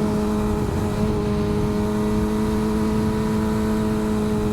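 Motorcycle engine running at a steady cruising speed, its pitch holding nearly constant and easing slightly lower near the end, over wind and road rumble.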